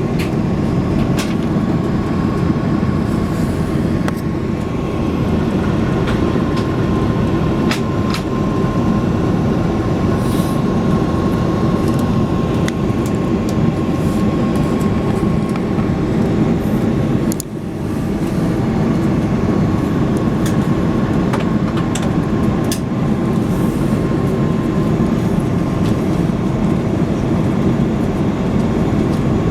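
Cabin noise inside an Airbus A330-300 airliner: a steady, loud rumble of engines and airflow with a faint steady whine and scattered rattles and clicks from the cabin fittings. It dips briefly a little past halfway through.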